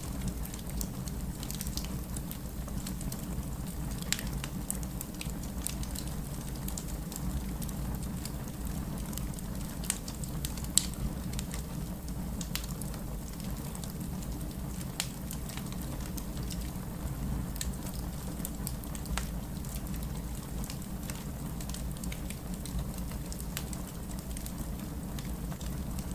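Wood fire in a fireplace crackling: irregular sharp pops and snaps over a steady low rumble. The loudest pop comes about eleven seconds in.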